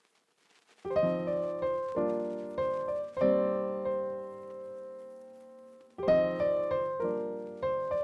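Background piano music: soft chords struck and left to ring, starting about a second in, with a held chord in the middle and new chords near the end.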